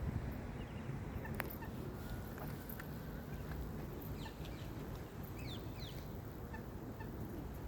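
Steady low rushing noise of outdoor ambience, with a few faint, short high bird chirps scattered through it.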